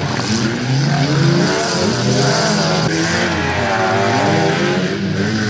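Several stock-car engines revving as the cars race on a dirt track, their notes rising and falling over one another.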